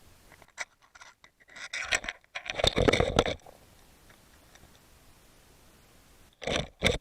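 Scraping and scratching handling noises in several short, irregular bursts, loudest about three seconds in, with a few clicks, and another burst near the end.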